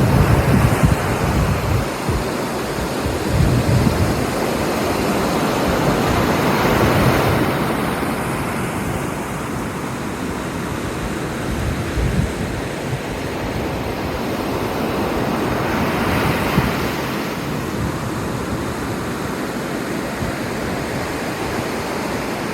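Surf breaking on the shore on a stormy day, with wind buffeting the phone's microphone. The waves swell louder about a third of the way in and again about three quarters through.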